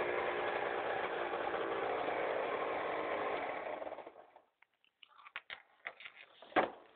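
Aprilia RS 125's single-cylinder two-stroke engine idling steadily, then dying away about four seconds in. A few light clicks follow, with one louder knock near the end.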